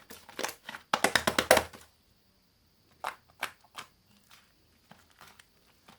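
Slime being squished and poked by hand, making sticky clicks and crackles. A fast, loud run of clicks comes about a second in, then a few scattered clicks around three seconds.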